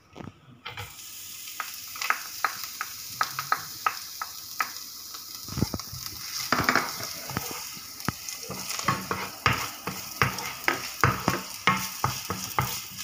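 Chopped onion and garlic sizzling in hot olive oil in a non-stick frying pan, stirred with a spatula that ticks and scrapes against the pan over a steady hiss. There is a louder thump a little after five seconds.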